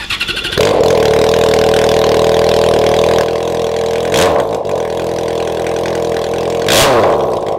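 Yamaha XJ6's 600 cc inline-four cranked on the starter and catching about half a second in, then running loud and raw with no exhaust fitted, straight from the open headers. The throttle is blipped twice, at about 4 seconds and again near the end.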